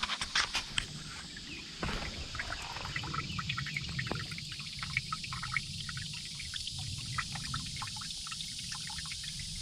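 Storm runoff trickling and splashing through a washed-out, eroded trail gully, with a few sharp knocks in the first second.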